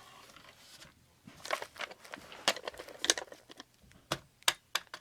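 Plastic clicks and rustling from handling a battery-powered Halloween animatronic and working its switch. No motor runs: the prop is not starting.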